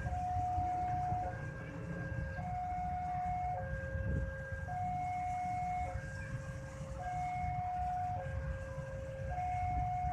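Railway level-crossing warning alarm sounding: an electronic two-tone signal alternating between a higher and a lower note, each held about a second, over the steady low rumble of waiting vehicle engines.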